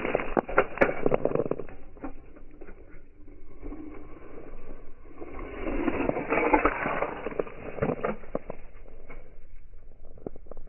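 Diecast toy cars rolling and crashing, heard slowed down: a muffled rushing rumble full of clicks and knocks. It swells loud at the start, dies down, then swells again around the middle.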